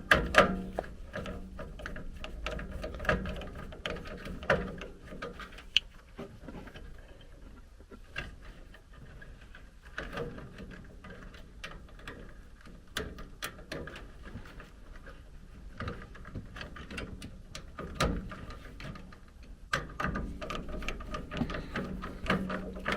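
Irregular small clicks, ticks and scrapes of hand work as thermostat wires are fastened to the low-voltage terminals of a gas furnace's control board.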